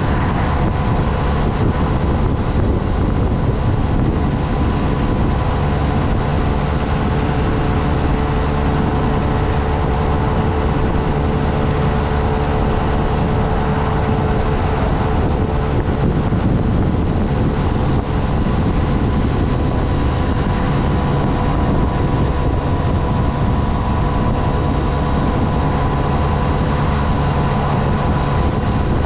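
Motorcycle riding at a steady cruise: the engine holds an even tone over low wind and road rumble on the microphone.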